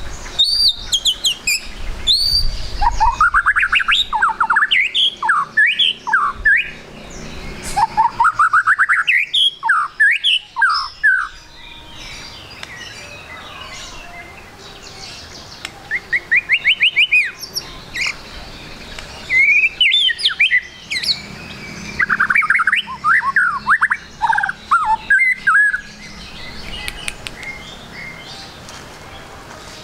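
White-rumped shama (murai batu) singing: bursts of rapid, varied whistled phrases with quick up-and-down sweeps, separated by pauses of a few seconds.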